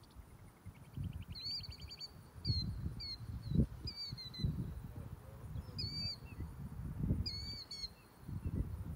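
Small birds calling around a pond: a string of short, sharply curved chirps repeated every second or so, with a brief buzzy trill about a second in. Under them, irregular gusts of low rumble from wind on the microphone.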